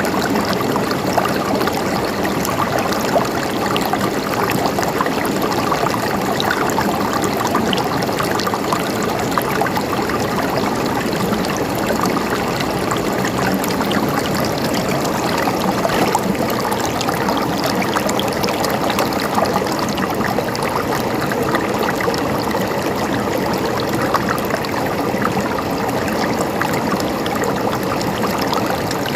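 River water flowing over rocks in a steady babble, with small splashes and gurgles throughout.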